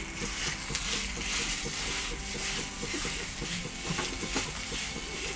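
Mashed potato frying in a kadai with a light sizzle, while a wooden spatula scrapes and presses it against the pan in repeated strokes, about two a second.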